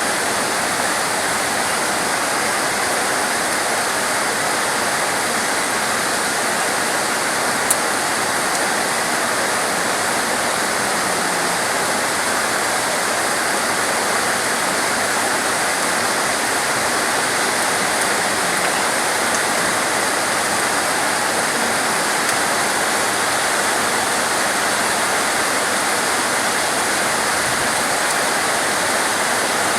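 Steady rain falling, a continuous even hiss with no change through the whole stretch.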